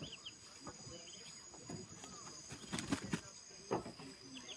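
Insects trilling, a steady high-pitched drone, with short bird chirps and a few faint knocks about three seconds in.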